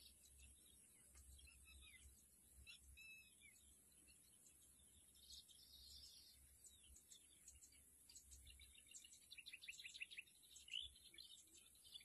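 Faint bird chirps and calls, with short falling whistles about three seconds in and a quick run of ticking notes around nine to ten seconds in, over a steady high hiss.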